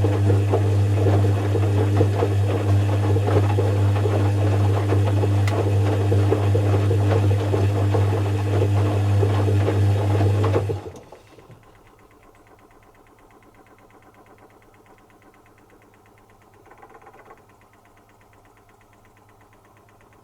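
Zanussi FC1000 compact washing machine running with a steady mains hum and rattle. It stops about eleven seconds in, leaving only faint rattling, a pause of the kind that comes between drum movements or stages of the cycle.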